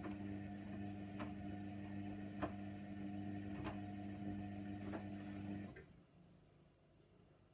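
Hoover Nextra 6 washing machine running mid-cycle: a steady electric hum with a sharp click about every second and a bit, like a slow tick. Near the end the hum cuts off suddenly.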